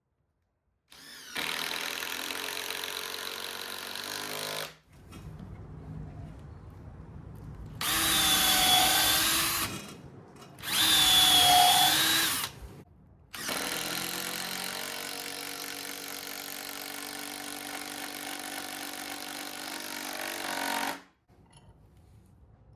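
Power drill working into timber in several runs: a steady run of a few seconds, two shorter, louder runs whose whine dips and comes back up, then one long steady run of about eight seconds.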